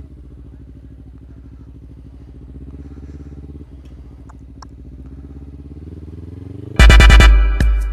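Kawasaki Ninja 300 parallel-twin engine running at low, steady revs. About seven seconds in, loud music with a heavy beat cuts in over it.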